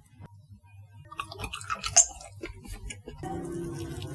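Close-up chewing of chewy spicy latiao (Chinese gluten strips), with wet mouth clicks and smacks. A low steady hum comes in about three seconds in.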